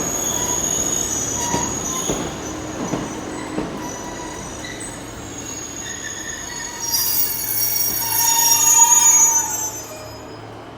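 Diesel multiple unit's wheels squealing on the rails in several high, piercing tones over a low running rumble as it rolls through the platform, the squeal loudest a couple of seconds before the end and then fading.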